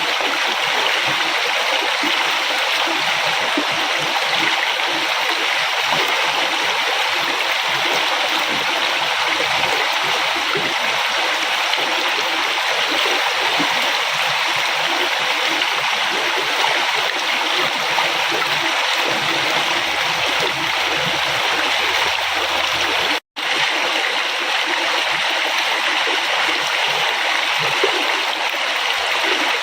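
A river flowing, a steady rush of water. The sound cuts out completely for a split second about two-thirds of the way through, then resumes.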